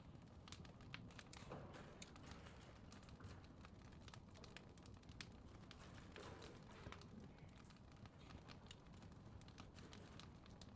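Faint fireplace crackling: irregular sharp pops and clicks over a low, steady hiss.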